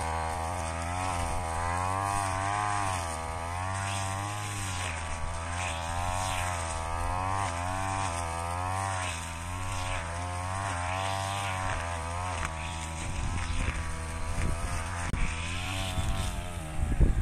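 Brush cutter engine running, its pitch rising and falling as the blade cuts through rice straw. Near the end the engine note drops away and the sound turns uneven and choppy.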